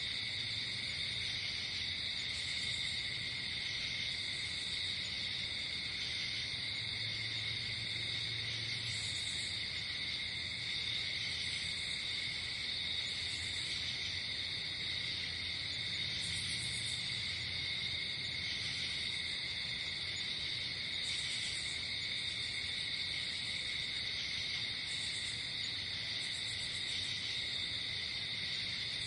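Night insect chorus, crickets chirring in a steady, unbroken trill, with shorter, higher trills coming in every few seconds.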